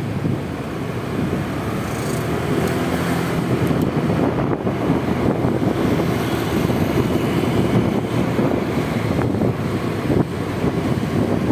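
Wind buffeting the microphone of a motorcycle-mounted camera over the running Honda Vario 125 scooter's single-cylinder engine and road noise, getting slightly louder a few seconds in.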